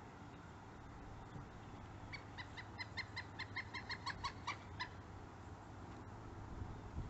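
Pileated woodpecker calling: a quick run of about fifteen short, even 'kuk' notes, about five a second, lasting nearly three seconds.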